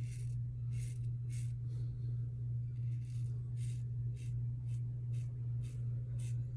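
A steady low hum with a series of brief, soft hissing swishes, about one or two a second.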